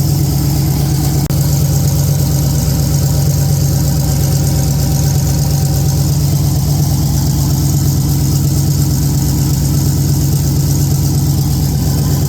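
Turbocharged LS V8 in a GMC pickup idling steadily, freshly assembled and just fired up for the first time.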